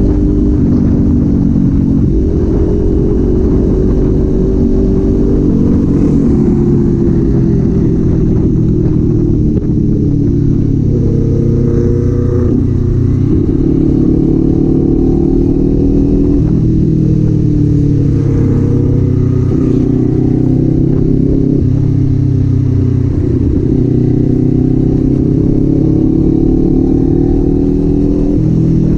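Kawasaki Z400 parallel-twin engine and exhaust under way, its pitch climbing under throttle and dropping back again and again as the rider shifts gears.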